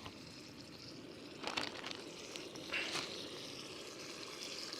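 Hot Italian sausage frying slowly in a skillet, a steady low sizzle. Two brief knocks or clinks cut through it, about a second and a half and three seconds in.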